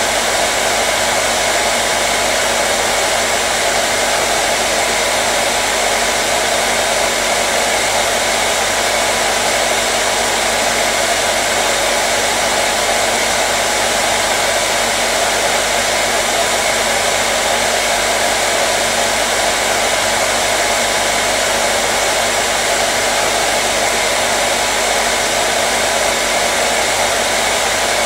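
Hair dryer running steadily: a constant blowing rush with a low motor hum beneath it.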